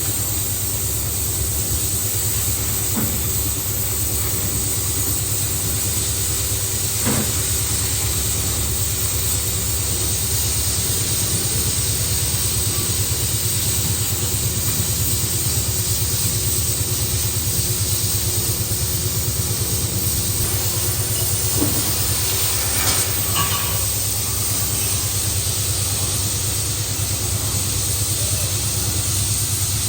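Heavy boring machine running steadily while machining a steel pipe: a low hum and a steady tone under an even hiss, with a few faint knocks.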